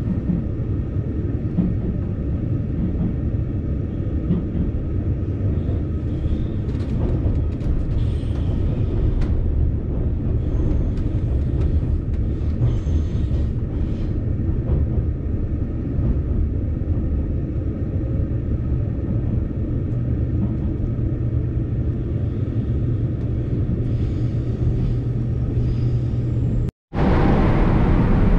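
Running noise of a JR Kyushu 787 series limited express train heard from inside the carriage: a steady low rumble. Near the end it cuts off for a moment, and a louder, brighter rumble follows.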